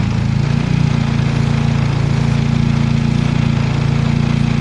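Turbocharged car engine idling steadily, close up in the engine bay. It is running at the high idle behind a P0507 code, which the owners put down to a vacuum leak at one of the hose T-fittings added with the turbo.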